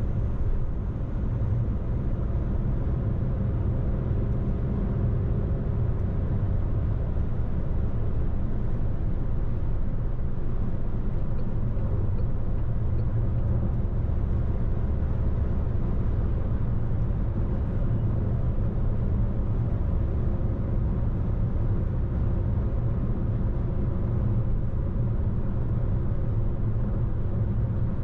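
Car driving along the road: a steady, low rumble of engine and tyres that holds even throughout.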